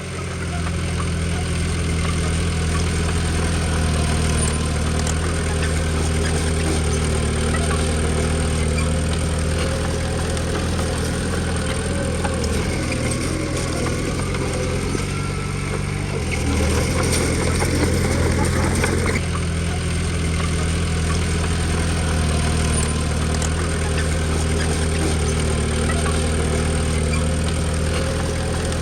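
Komatsu D20P bulldozer's diesel engine running steadily while working. Its note shifts for a few seconds past the middle, then changes abruptly about two-thirds of the way in.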